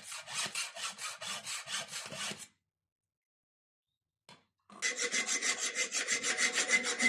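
Hand tool rasping back and forth on the steel of rebar tongs in steady, even strokes. The strokes stop about two and a half seconds in and, after a pause, start again faster and louder, with a faint ringing note from the metal.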